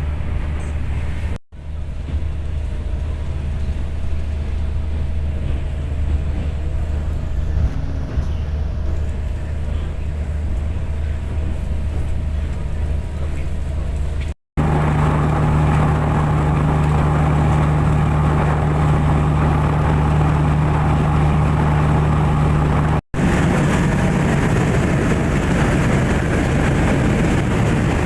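Engines of a high-speed passenger ferry running steadily, a loud low drone with engine and water noise. The sound drops out for a moment three times and the hum shifts to a different pitch mix about halfway through.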